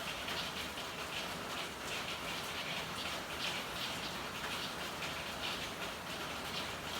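Steady rain falling, a dense, even patter of drops with no single sound standing out.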